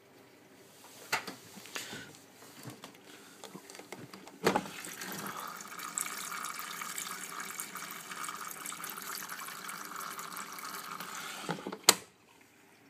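Miele W562 washing machine filling for its main wash: a few faint clicks, then the water inlet valve clicks open about four seconds in and water rushes steadily into the machine. The valve shuts with a sharp click near the end.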